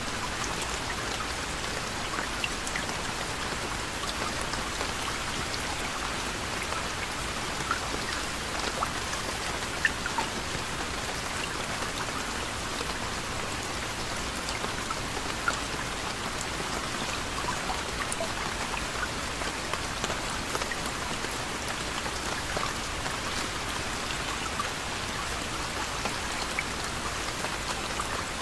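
Soft, steady rain: a continuous hiss with scattered individual drops ticking through it.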